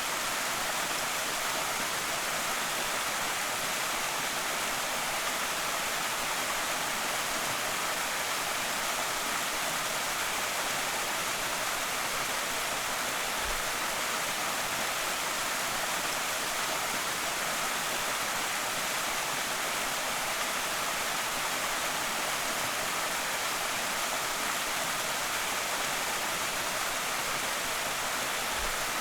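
Waterfall on a small creek, water pouring and splashing in a steady, even rush with a hiss in the highs.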